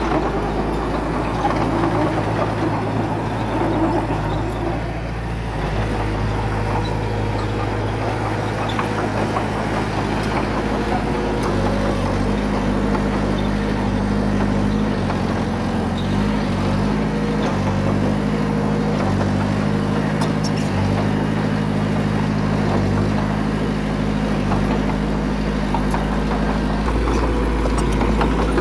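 Heavy diesel engine of a bulldozer working, its pitch stepping up and down several times as the load and throttle change.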